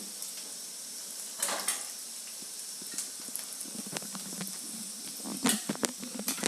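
A chili, ginger and green-turmeric paste sizzling in hot oil in a pan, as a steady hiss. A few short scrapes and knocks of a spoon against the pan come about a second and a half in and again near the end.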